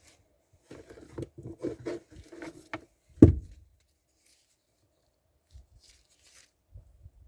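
A quick run of clicks and knocks, about five a second for two seconds, then one loud thump, followed by a few faint ticks.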